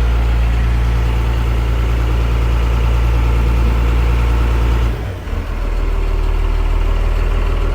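Boat engine running steadily at low speed with a low hum. About five seconds in the level dips briefly and the engine note drops, then it runs on steadily at the lower note.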